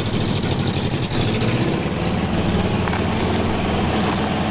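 A vintage 4x4's engine running steadily at low revs, just before it drives out onto creek ice.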